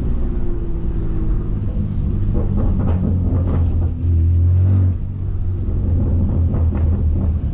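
BMW S55 twin-turbo straight-six through catless downpipes, a single mid-pipe and an open valved axle-back exhaust, running with a deep drone while driving, louder for about a second midway.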